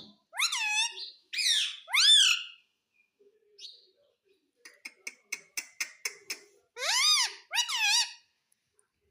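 Indian ringneck parakeet calling: three loud, pitched calls that swoop down and up, a quick run of short clicking chirps, then two more swooping calls.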